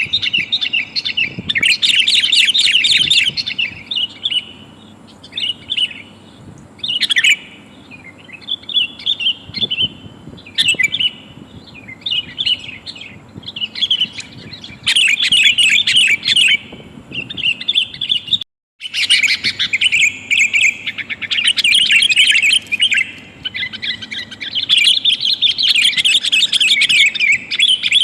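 Sooty-headed bulbul (kutilang) calling in bursts of rapid, bubbly chirping phrases, sold as a female calling to males and used as a lure to bring wild bulbuls down. The calls break off for a split second about two-thirds of the way through.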